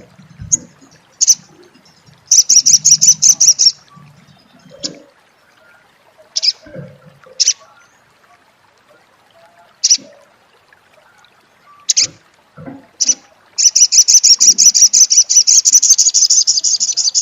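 Spiderhunter (sogok ontong) giving its 'crecet' chattering call: single sharp call notes at intervals, a rapid rattling trill of about a second and a half a couple of seconds in, and a longer rattling trill of several seconds near the end.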